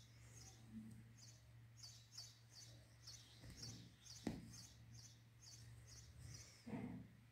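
Faint bird chirping, short high chirps repeating about twice a second, over a low steady hum. A single sharp click comes about four seconds in and a soft thump near the end.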